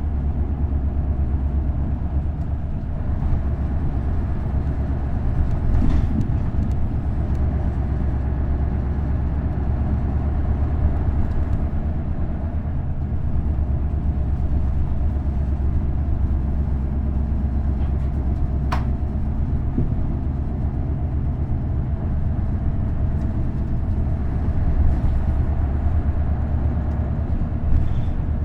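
V8 diesel engine of an Isuzu Erga city bus with a direct-drive five-speed manual gearbox, running at a steady pace with road noise. A sharp click about 19 seconds in.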